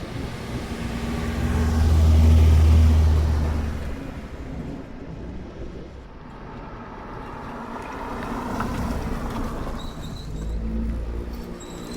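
Cars driving past one after another. The first passes about two seconds in with a deep, loud engine note that then fades. A quieter one goes by around eight seconds, and a low engine hum builds again near the end.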